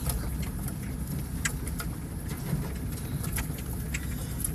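A passing vehicle's steady low rumble, with a few short faint clicks scattered through it.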